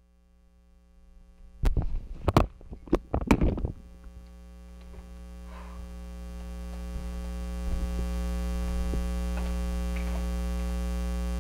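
A handful of sharp knocks and clatters, then a steady electrical mains hum that swells over several seconds and holds.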